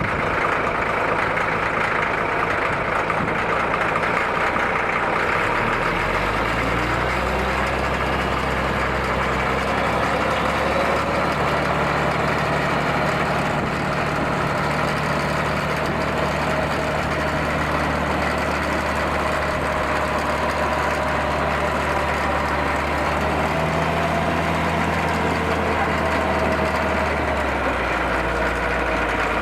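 Caterpillar D7G crawler dozer's six-cylinder diesel engine running steadily at a low, even speed.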